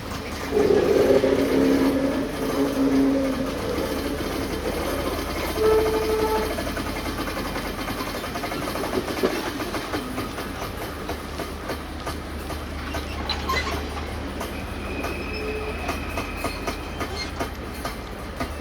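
A train moving slowly along the track, its wheels clicking over the rail joints over a steady low rumble. A louder pitched sound rises in the first few seconds.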